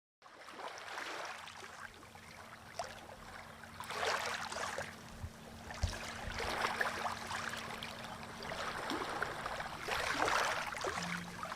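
Small sea waves washing onto the shore, the rush swelling and falling back every few seconds.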